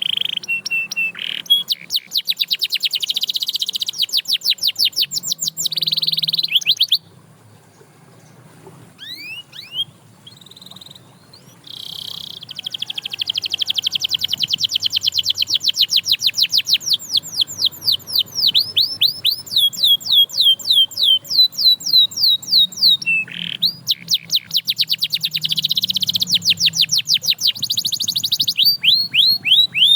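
Domestic canary singing: fast trills of rapidly repeated chirping notes. There is a pause of a few seconds with only a few single notes, after which long rolling trills run on.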